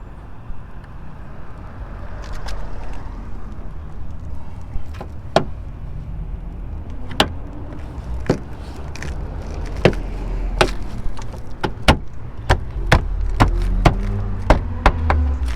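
A loose plastic panel on a 2020 Subaru Forester flapping and slapping against the body, in sharp irregular clacks that come more and more often, over a low road rumble that grows louder.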